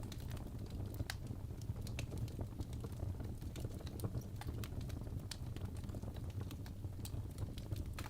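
Wood fire burning in a fireplace: irregular sharp crackles and pops from the logs, several a second, over a steady low rumble of the flames.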